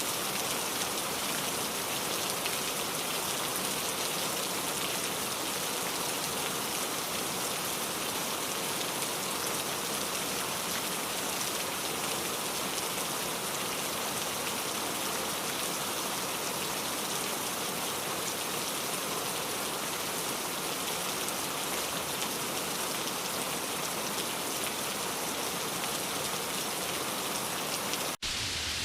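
Steady heavy rain falling, a dense even patter of drops. Near the end it cuts out for an instant and resumes with a thinner, hissier sound, as at a splice between recordings.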